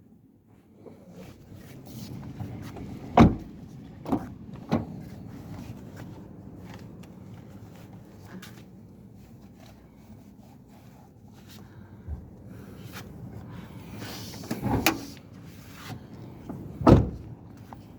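Honda Brio Satya's 1.2-litre SOHC i-VTEC engine idling steadily, with a handful of sharp knocks and clunks over it, two of them loud.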